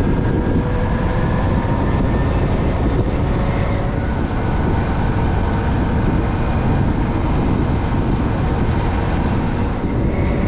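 Motorcycle under way: a loud, steady rush of wind and road noise with an even engine drone underneath.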